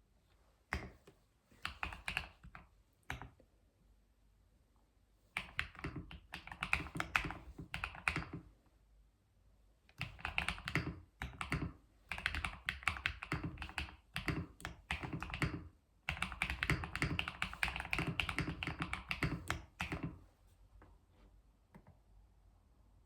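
Typing on a computer keyboard: fast runs of clacking keystrokes in several bursts of a few seconds each, separated by short pauses, tailing off into a few scattered taps near the end.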